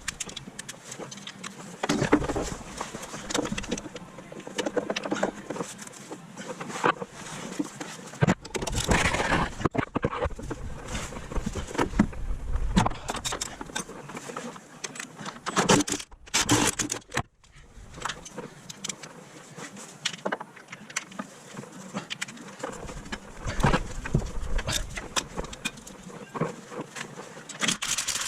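Metal tools and parts clinking, rattling and knocking during hands-on work on a car, a dense run of short clicks with heavier clatters now and then.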